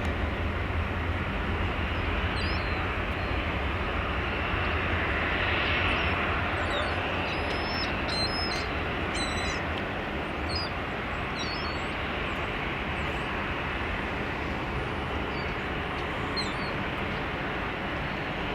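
Jet noise from a departing Boeing 717's Rolls-Royce BR715 turbofans: a steady rushing roar that slowly fades as the aircraft moves away. Small birds chirp repeatedly over it.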